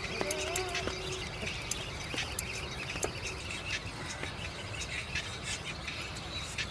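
Birds calling: many short, high chirps, with a brief wavering squeal in the first second.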